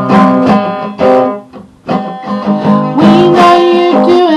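Acoustic guitar strummed chords between sung lines of a song, with a brief drop-out about one and a half seconds in before the strumming picks up again.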